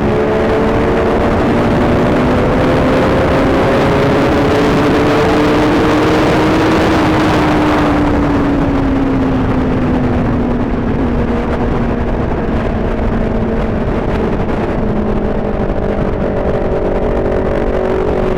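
Motorcycle engine under way. Its pitch climbs gently for about seven seconds, eases back over the next few, then holds steady, under a heavy rush of wind noise.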